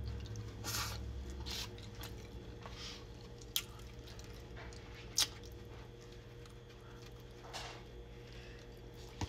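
Close-up mouth sounds of someone chewing spaghetti and chicken: scattered wet smacks and clicks, two sharper ones a few seconds in.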